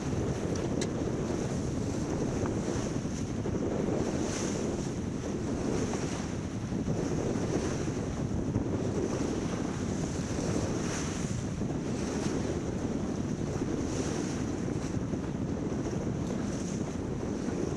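Wind buffeting the microphone over water rushing and splashing along the hull of a sailboat under way, the splashes swelling every couple of seconds.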